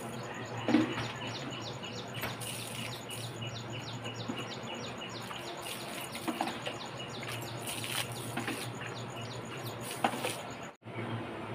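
A bird calls in a fast, steady run of short, high notes that each slide downward, several a second, over a steady low hum. There is a loud knock about a second in, and near the end water is flung from a metal bucket onto the ground with a splash.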